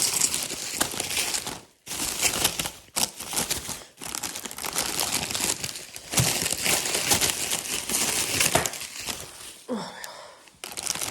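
Crinkling and rustling of plastic or paper packaging being handled and unwrapped, in uneven bursts with a few short pauses.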